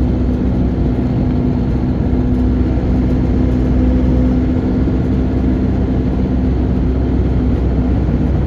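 A car driving at speed, heard from inside the cabin: a steady low rumble of engine and road noise, with a steady hum that fades out near the end.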